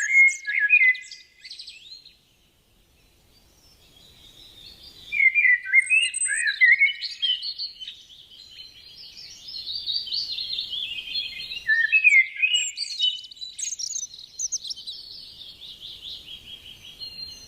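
A songbird singing long, rapid phrases of varied chirps, trills and warbles. The song breaks off about a second and a half in and starts again after a pause of about three seconds.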